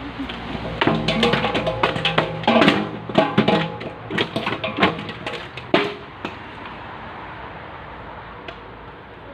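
A quick, irregular run of sharp knocks and clatter with some ringing tones, lasting about five seconds, then a steady hiss.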